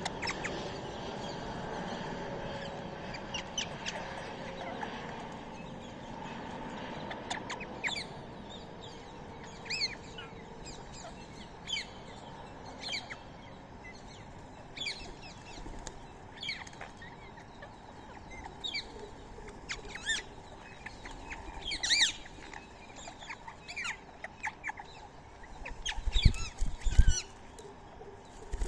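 Birds giving short, sharp chirping calls, one every second or two, the loudest about two-thirds of the way through, with a few low thumps near the end.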